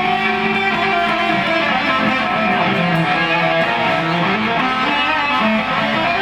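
Electric guitar playing a melodic line of held notes that step up and down in pitch.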